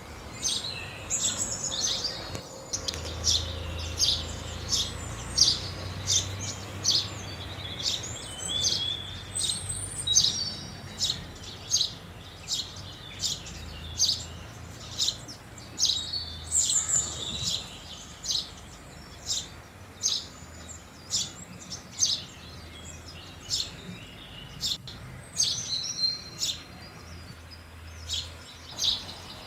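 House sparrows chirping: a steady stream of short, sharp chirps, about one or two a second, from several birds at once, over a faint low hum.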